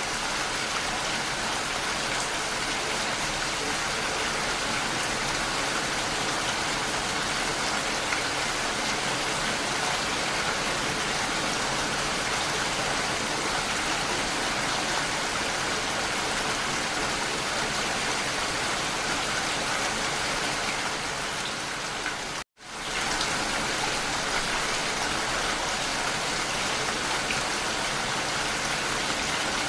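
Steady rain falling, an even hiss of drops. About three-quarters of the way through it fades down, cuts out for an instant and comes straight back.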